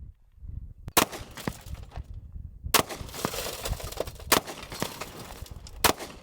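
.45-calibre handgun fired four times at a pickup truck, the shots about a second and a half apart.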